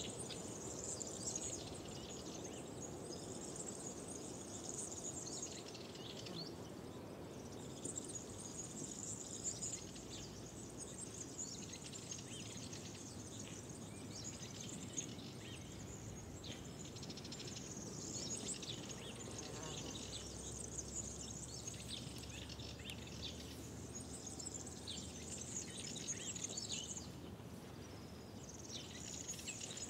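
Songbirds chirping and singing in a dense spring-morning chorus, many overlapping calls with brief lulls, over a soft steady outdoor background noise.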